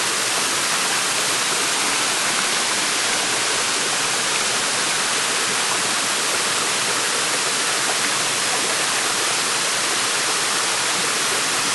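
Waterfall crashing into a pool, a steady, unbroken rush of falling water.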